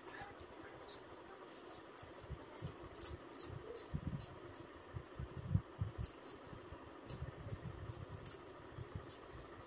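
A person chewing and eating food close to the microphone: soft irregular low thumps with small sharp mouth clicks scattered through, over a faint steady background hum.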